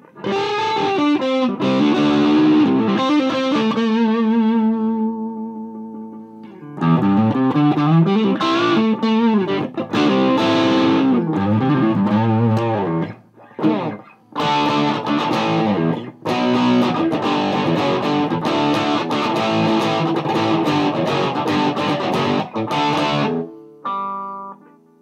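Electric guitar (Gibson Les Paul) played through a Mesa Boogie Dual Rectifier tube amp with a moderate-gain distorted tone, into a Marshall 1960A 4x12 cabinet. It plays riffs and sustained notes with bends and vibrato in phrases, with short breaks, and a last note dies away near the end.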